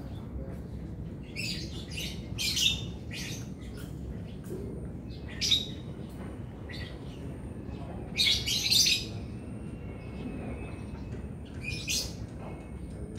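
Small birds chirping: short, high chirps in scattered clusters, the busiest about a second in and again around eight seconds in, over a steady low background rumble.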